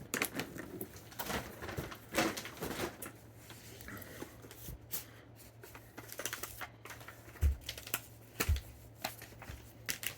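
Cardboard firework boxes being handled and shifted: scattered light clicks, taps and rustles, with two dull thumps about a second apart near the end.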